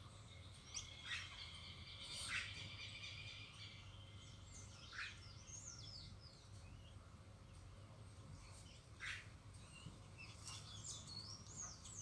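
Small wild songbirds calling, faint: a high held song in the first few seconds, then sharp short calls and rising-and-falling chirps.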